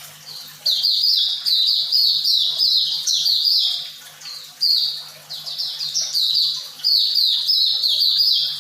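White-eye (Zosterops) singing a fast twittering song of quick, high, downward-sliding notes, in two long runs with a short pause about four seconds in. A faint low hum sits underneath.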